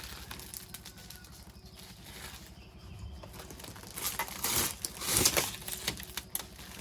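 Rustling and crinkling handling sounds with scattered knocks and clicks, busiest and loudest about four to five and a half seconds in.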